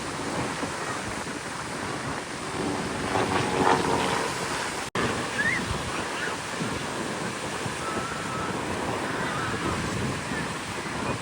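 Wind buffeting the microphone over a steady rushing wash of outdoor noise, with faint voices about three to four seconds in and a momentary dropout near five seconds.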